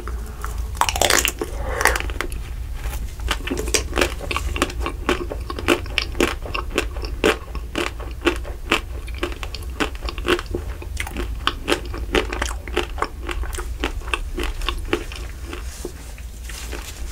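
A close-miked bite into the ruby chocolate shell of a Magnum mini ice cream bar, then steady chewing. The crisp shell crunches and clicks many times as it breaks up.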